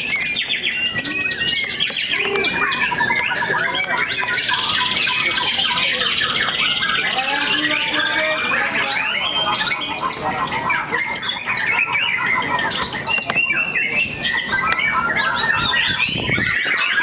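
Several white-rumped shamas (murai batu) singing over one another in a dense, loud tangle of rapid whistles and chattering phrases. A long buzzing trill runs through the middle.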